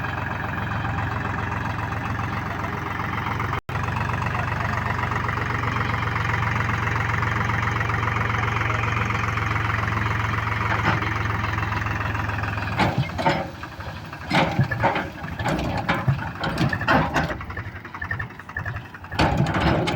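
Diesel engine running steadily at a low idle-like pace, which stops about thirteen seconds in; after that come irregular loud knocks and bursts of sound.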